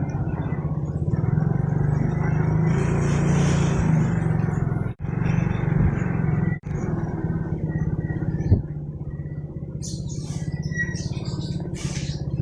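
Motorcycle engine running steadily on the road, with road and wind noise. The sound cuts out abruptly twice near the middle, and there is a sharp click a little later.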